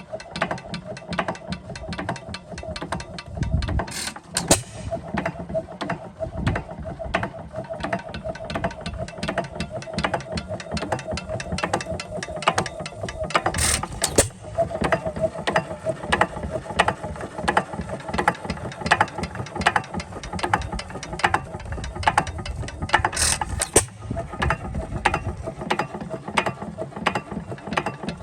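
4 HP Sandwich hit-and-miss engine running, its valve gear and governor making rapid, evenly spaced clicking over a steady hum, with a few louder, sharper strokes.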